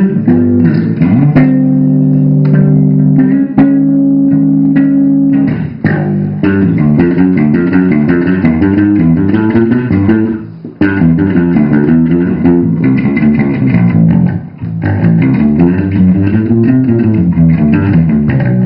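A band rehearsing: guitar and bass guitar playing fast picked note runs, with a chord held for a few seconds near the start and brief breaks about ten and fifteen seconds in.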